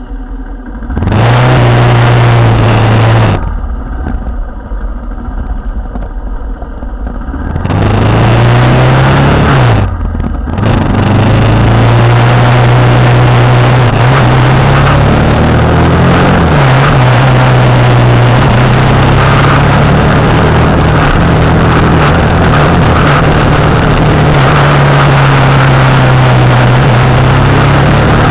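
Motorcycle engine running while riding, its note rising and falling with the throttle and gear changes, under a steady rushing noise. It is quieter for a few seconds early on, then loud and steady from about eight seconds in.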